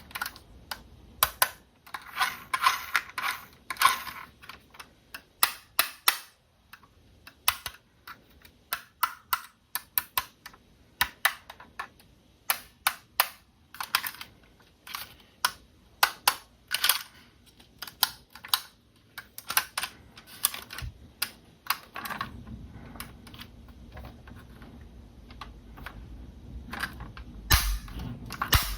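Small hard plastic parts being handled: many sharp, irregular clicks and taps, close to the microphone. A steady low hum comes in about three quarters of the way through.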